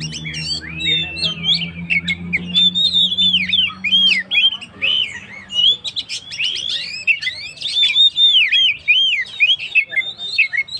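Oriental magpie-robin (kacer) singing in full, continuous song: rapid rising-and-falling whistled phrases mixed with harsher chatter. A low steady hum underneath fades out about four seconds in.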